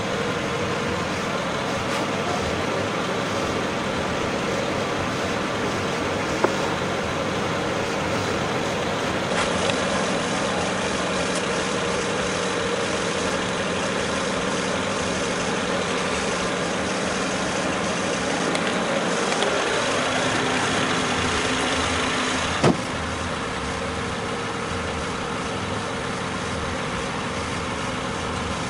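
BMW 335xi's twin-turbo inline-six idling steadily.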